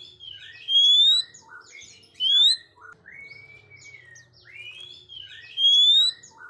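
Oriental magpie-robin in full song: loud rising whistles among short, varied chirps and sweeps, the same phrase coming round again about every five seconds.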